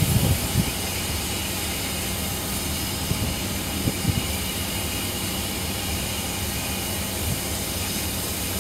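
Steady low hum of standing trains at a station, with a few light knocks at the very start and about four seconds in.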